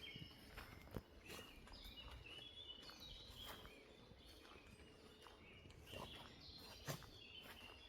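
Faint forest ambience: birds chirping in short calls, with scattered footsteps and small snaps on the forest floor. Two sharper clicks stand out, about a second in and near the end.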